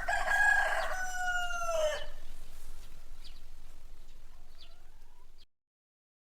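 A rooster crowing once, a loud drawn-out call of about two seconds that drops in pitch at the end, followed by a few faint short chicken calls before the sound cuts off suddenly.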